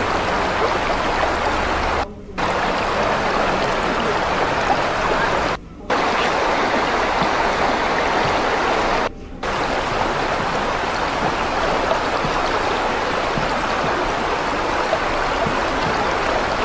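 Running water of a stream, a steady rushing flow, cutting out briefly three times.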